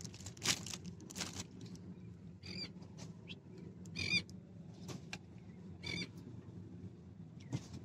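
Three short, pitched bird calls a couple of seconds apart, over a low, steady rumble.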